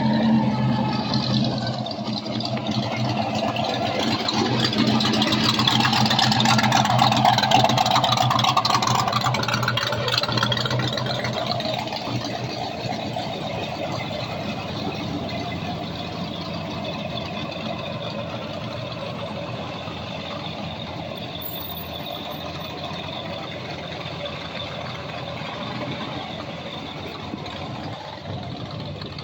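A car engine running close by, steady at first, growing louder over the first several seconds and then slowly fading.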